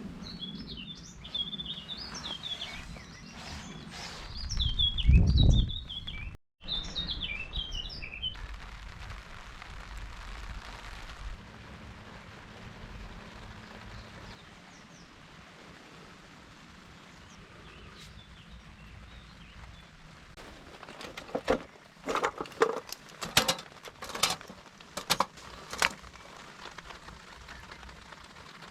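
Small birds chirping and twittering over a steady outdoor hiss, with a brief low rumble about five seconds in. Later comes a cluster of sharp knocks and clatters.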